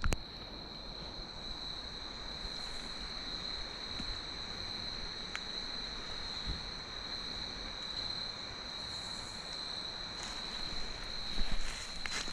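Crickets trilling in one steady, high-pitched, unbroken tone over a soft, even background hiss.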